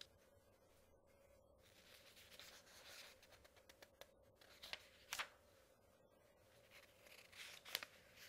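Paper pages being turned by hand: a soft rustle, then two crisp page flicks a few seconds apart, over a faint steady hum.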